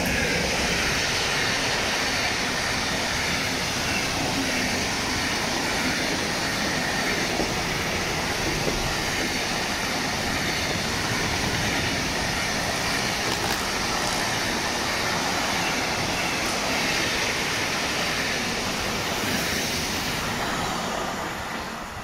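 Intermodal freight train hauled by a DB class 185 electric locomotive passing: a steady, loud rolling of wagon wheels on the rails, which fades near the end as the last wagons pull away.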